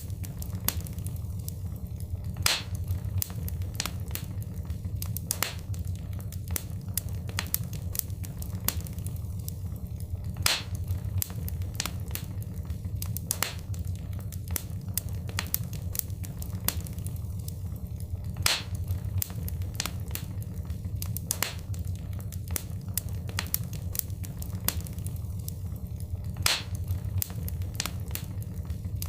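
Wood fire crackling, with sharp pops and snaps over a steady low rumble. The same pattern of louder pops comes back about every eight seconds, as in a looped recording.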